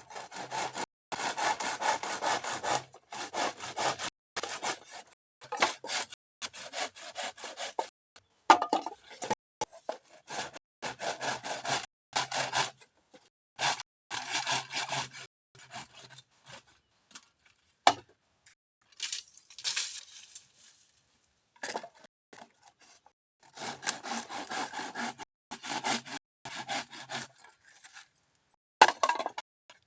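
Hand saw cutting through bamboo, back-and-forth strokes in spells of several seconds broken by short pauses.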